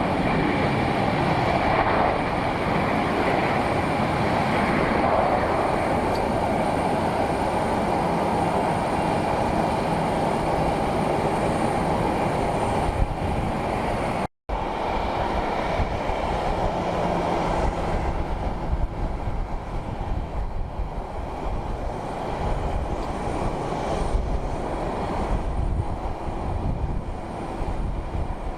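Jet aircraft engine noise: a steady, loud rush. It cuts out for an instant about halfway through, then returns as a lower, uneven rumble.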